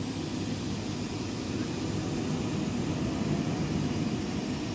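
Air-ambulance helicopter's turbine engine and rotor running on the ground before lift-off, a steady heavy rumble with a faint high turbine whine slowly rising in pitch.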